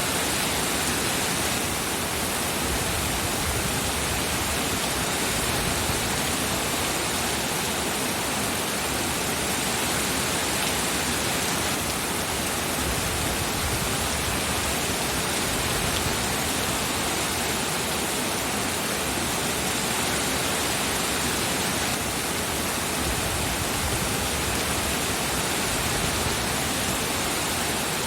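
Steady, heavy rain falling as a continuous even hiss.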